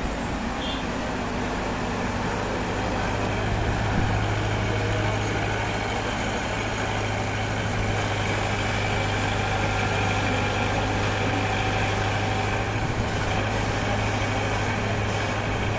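A heavy engine running steadily at an even pitch, a constant low drone with no revving.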